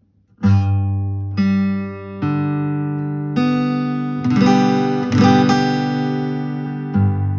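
Guitar played with a TwinPix double nylon pick, switching between strumming and picking. It starts about half a second in with a series of chords and notes that ring on, with a quicker cluster of strokes about four to five seconds in.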